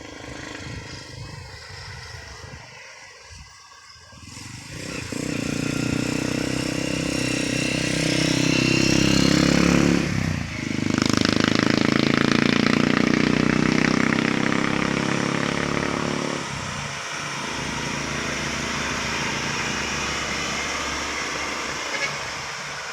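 Heavy diesel vehicle engine passing close by. It comes up loud about five seconds in, dips briefly about halfway through, then eases and fades over the last several seconds.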